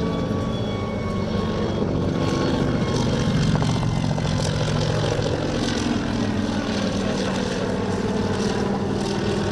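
Kamov Ka-26 coaxial helicopter in flight: a steady engine drone with the flutter of its contra-rotating rotors, swelling slightly a few seconds in.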